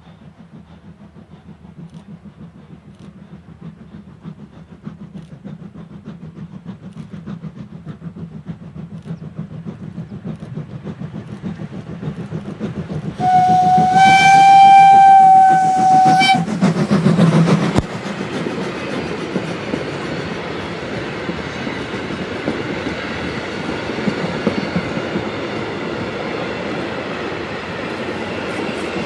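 A train approaches and grows steadily louder. About halfway through it sounds one long, steady whistle lasting about three seconds, then passes close with a loud rumble and wheels clattering over the rail joints.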